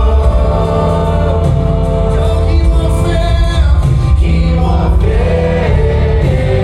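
Live worship music: a group of voices singing a gospel-style worship song over a band with a strong, steady bass.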